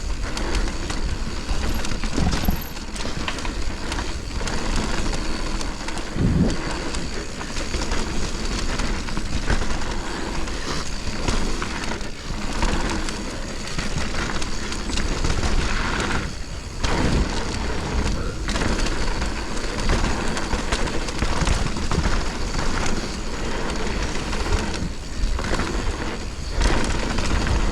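Mountain bike descending a dirt trail: a steady rush of wind on the helmet or body microphone over tyre noise on dirt and rattling of the bike, with several knocks from bumps and landings.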